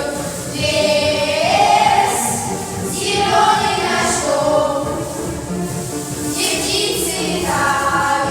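A group of voices singing a song together in unison, with held, gliding notes over musical accompaniment.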